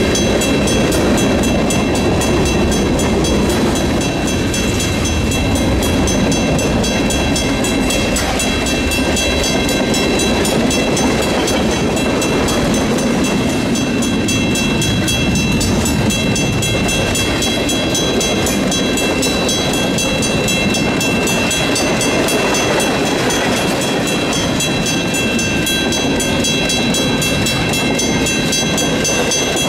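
A BNSF freight train's cars rolling steadily past at close range: a continuous rumble and clatter of steel wheels on the rails, with several steady high-pitched tones ringing over it.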